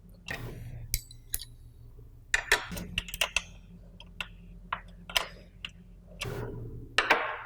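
Wrenches clicking and clinking against the fittings as the water-line connections on a solenoid valve are tightened: irregular sharp metal ticks, some in quick clusters.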